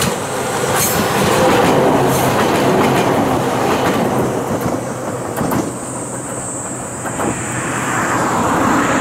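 Ohmi Railway electric train 822F passing close by, its wheels clacking over the rail joints, then fading as it moves away over the second half.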